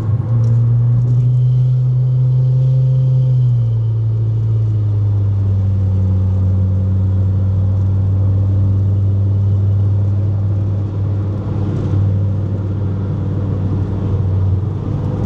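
Car engine and road drone heard from inside the cabin while driving, a steady low hum whose pitch steps down once about three and a half seconds in and then holds even.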